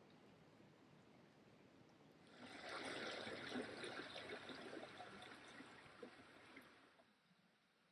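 Small stream trickling and gurgling over stones. It fades in about two seconds in and fades out again near the end.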